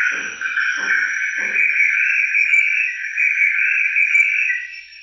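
Dense, steady chorus of calling animals. A lower pulsing call repeats about twice a second and stops about two seconds in.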